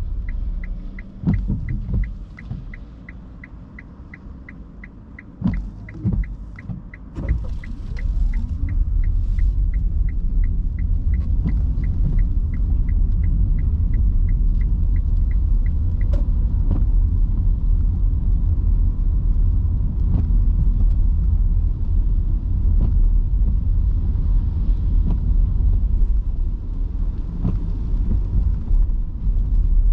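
Inside an electric car's cabin on a rain-soaked road: a low tyre and road rumble that grows louder as the car gets moving about seven seconds in. A turn-signal indicator ticks steadily, about two to three ticks a second, until about halfway, with a few dull thuds early on.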